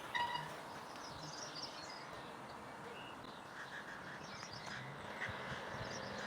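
Faint outdoor ambience with small birds chirping on and off. A short bell-like ring sounds at the very start.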